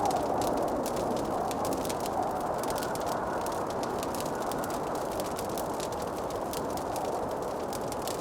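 Wood fire in a fireplace crackling, with many small irregular pops and snaps over a steady rushing hiss.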